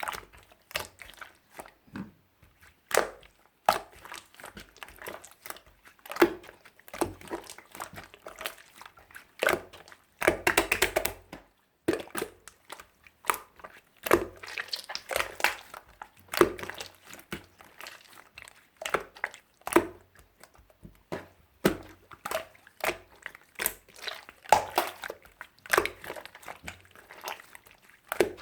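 Clear slime being squished and pressed by hand, giving irregular wet pops and clicks, with a denser run of crackling a little over a third of the way in.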